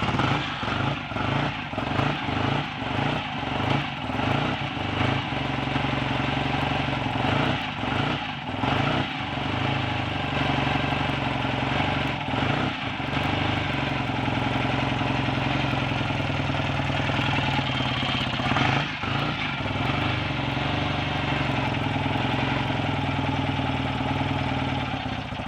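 BSA A65 Thunderbolt 650 cc parallel-twin engine, just rebuilt, firing up and running unevenly for a few seconds before settling to a steady idle. Its revs change briefly a few times, and it cuts out at the very end. The ignition timing is only roughly set, and the owner thinks it a bit retarded.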